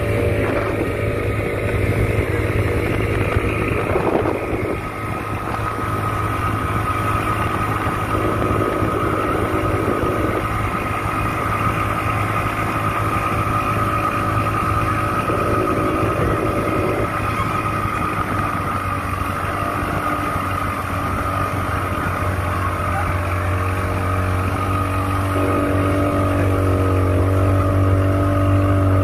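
An engine running steadily at an even speed, a little louder near the end.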